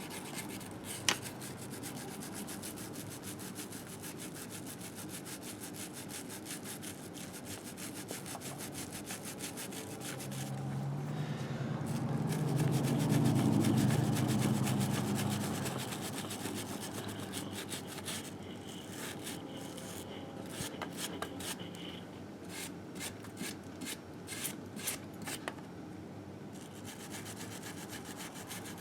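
Rapid back-and-forth scrubbing on the engine case of a 1958 Harley-Davidson Sportster, working off built-up grime. A low hum swells and fades about halfway through.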